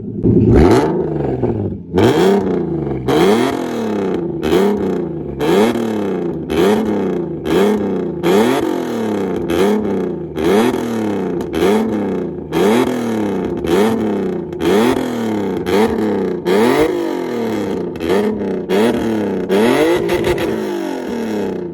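Corvette V8 with a quad-tip exhaust, revved in repeated blips about once a second, its pitch rising and falling again each time, with a sharp crack at each rev.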